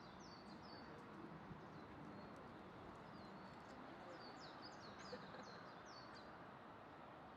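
Faint birds chirping: a quick run of short, falling chirps near the start and another about four seconds in, over a steady outdoor background hum.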